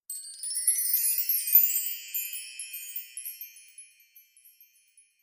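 Bright tinkling chimes: many high notes ringing over one another, fading out over about four seconds.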